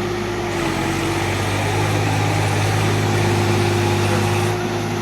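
Diesel tractor engine running steadily at a fairly constant speed, a little louder through the middle and easing back near the end.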